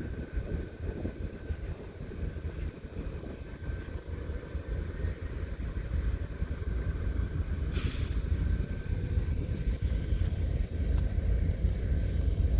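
Diesel locomotive engine running with a deep, steady rumble that grows gradually louder, with a short hiss about eight seconds in.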